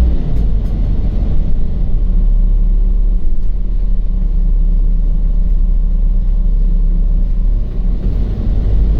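LiAZ 5292 city bus running on the road, heard from inside the passenger cabin: a steady low engine and road rumble with no sharp events.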